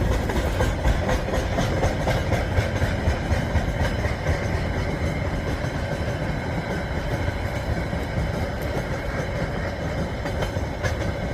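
Freight train wagons rolling past, a steady rumble of wheels on the rails with a faint, steady high-pitched ring over it.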